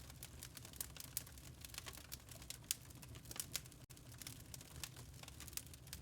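Wood fire crackling in a fireplace: irregular sharp pops and snaps over a low steady rumble, with a split-second break in the sound a little before the middle.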